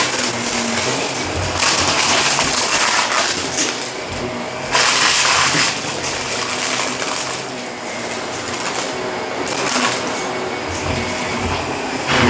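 Shark vacuum cleaner running over carpet in quick back-and-forth strokes, its steady motor whine swelling and easing every few seconds, with crunching as sprinkled debris is sucked up.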